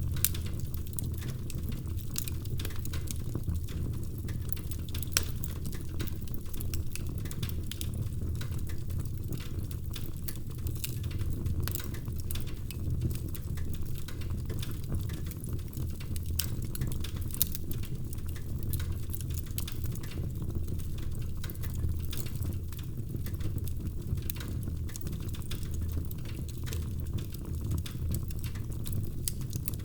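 Wood fire burning in a fireplace: a steady low rumble of flames with constant small crackles and a few louder pops.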